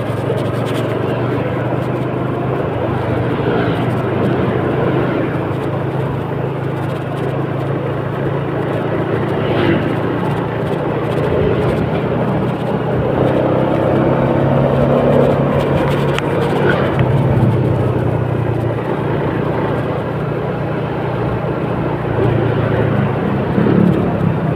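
Steady running noise of a moving vehicle, engine and road sound with a low hum.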